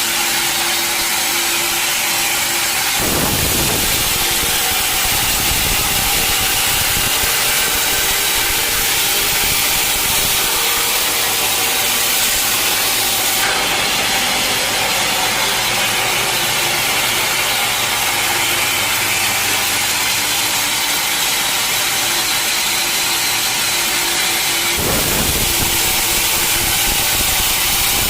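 A sawmill saw cutting a teak log, running loud and steady. Its sound changes a few times as the cut goes on: a low rumble comes in about three seconds in, and the sound shifts again about halfway through and near the end.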